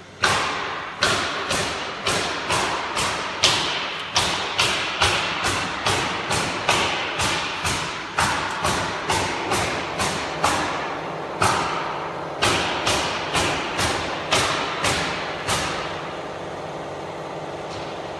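A long series of sharp knocks, about two a second, each ringing briefly. They stop near the end, leaving a steady background hum.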